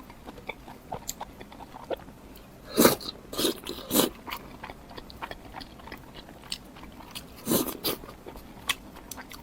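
Close-miked eating sounds: a steady run of small wet mouth clicks from chewing, with louder bites about three to four seconds in and again near eight seconds.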